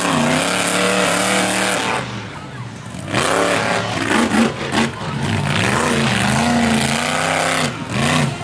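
Monster truck engine revving up and down repeatedly, easing off about two seconds in, then picking up again.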